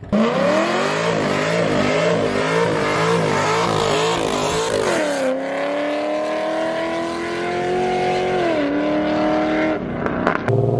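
A car engine revving hard while accelerating away: the pitch wavers up and down for about five seconds, then drops twice with upshifts as the car pulls away, with some tyre noise. The sound cuts off sharply near the end and another engine comes in.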